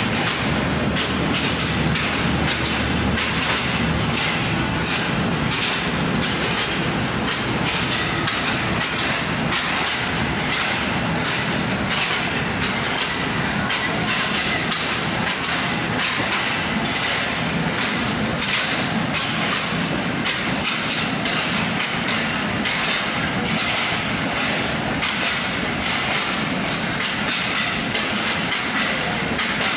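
Passenger train coach rolling along the track, heard from on board at an open door: a steady rumble and rush with repeated clicks and knocks of the wheels over rail joints.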